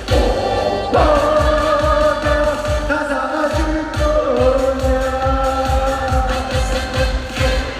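Live trot song: a singer holds long notes over a backing track with a steady kick-drum beat of about two hits a second. The beat drops out briefly about three seconds in, then comes back.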